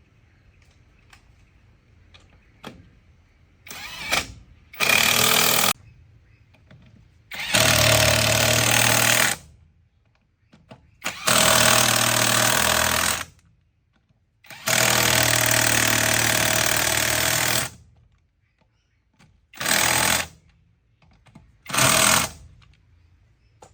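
A power tool run in six loud bursts of between half a second and three seconds each, with short pauses between them; the longest burst comes around the middle.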